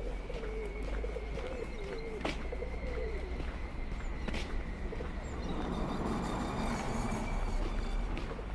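A bird gives a low, wavering cooing call for the first few seconds, over a steady low background hum. There are a couple of sharp clicks, and a broader rush of noise swells in the latter half.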